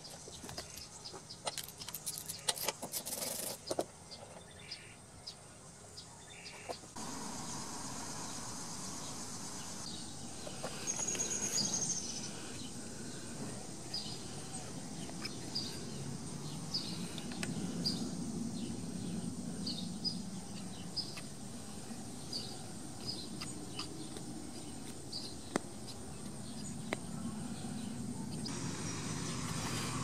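Outdoor background with small birds chirping now and then, and one longer high call partway through. A few sharp clicks in the first few seconds.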